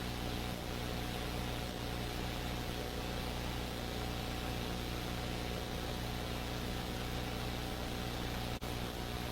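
Steady hum of a police helicopter's engine and rotors heard from inside the cabin through the crew's radio and intercom, with a constant hiss. It cuts out for an instant near the end.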